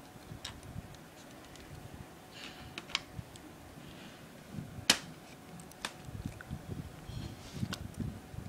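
Hard plastic laptop casing being pried and handled: scattered clicks and taps, a little rustling, and one sharp snap about five seconds in as a part pops loose.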